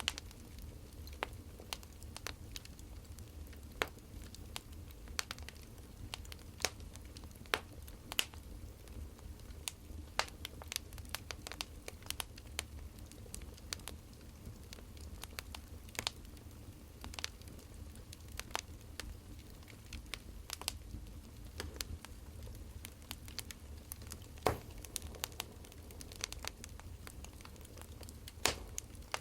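Burning firewood crackling, with irregular sharp pops, a few louder than the rest, over a low steady rumble.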